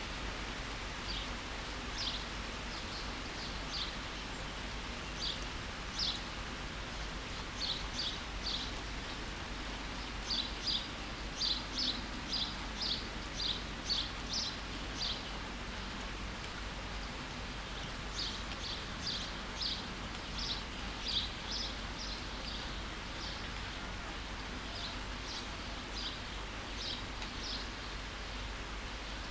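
Steady rain hiss with a small bird calling over it in runs of short, high chirps, a few per second, with a brief pause near the middle.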